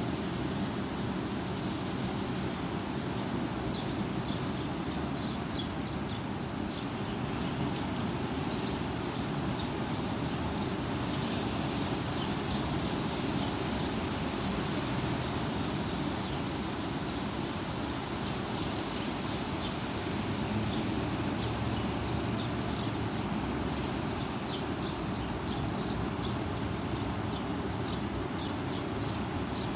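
Strong wind blowing steadily, with a low rumble of wind on the microphone and many short, high chirps scattered throughout.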